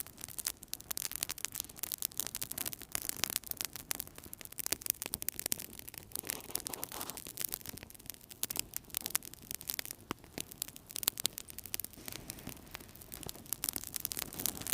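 Wood fire crackling in a fireplace: dense, irregular pops and snaps over a soft, steady hiss of the flames.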